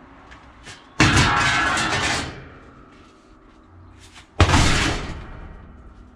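Two loud crashes of heavy objects being handled: a clattering one with some ringing about a second in that lasts over a second, then a sharp bang about four seconds in that dies away over a second.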